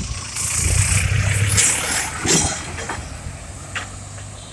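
A motor vehicle passing close by on the street: a low engine hum and the rush of tyres swell about half a second in, then fade after about two and a half seconds.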